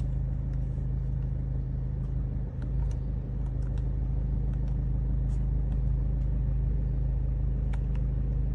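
Ford EcoSport engine idling, heard from inside the cabin as a steady low hum, with a few faint clicks over it.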